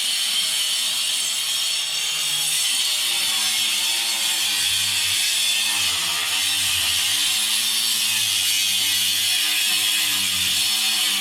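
Power tool running steadily as it cuts down the masonry of an old wall, its pitch wavering as it is worked under load.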